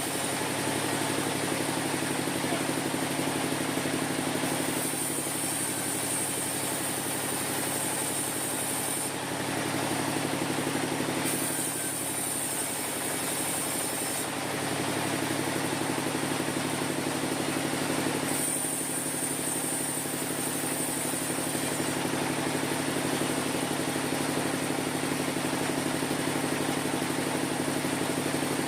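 Sawmill machinery running steadily with a low, even hum. A high hiss comes and goes in three stretches of a few seconds each.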